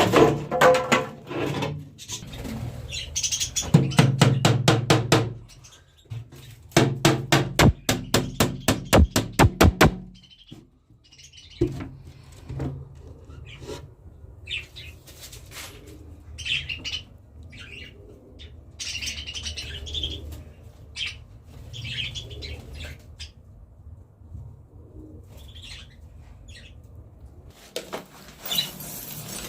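Two runs of rapid, evenly spaced clacking from hand work on a wooden nest box fill roughly the first ten seconds. After that, small cage birds chirp in short, scattered calls.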